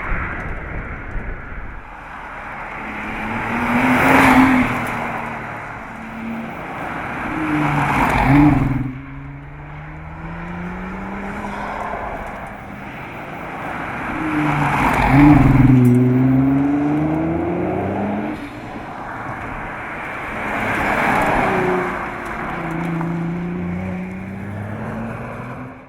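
High-performance car engine and exhaust revving and accelerating, its pitch climbing and falling several times. The loudest pulls come about 4, 8 and 15 seconds in, and the sound cuts off abruptly at the very end.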